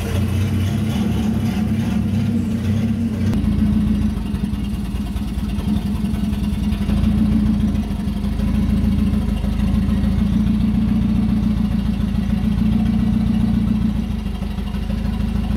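A car engine idling steadily, with a small change in its lowest tones about three and a half seconds in.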